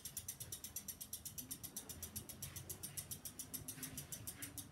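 Halsey GEV ceiling fan running with a fast, steady mechanical ticking, about six ticks a second.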